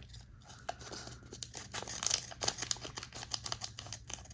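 Foil booster pack of trading cards being opened: quick scissor snips and crinkling of the wrapper, a dense run of clicks and rustles that is busiest in the middle.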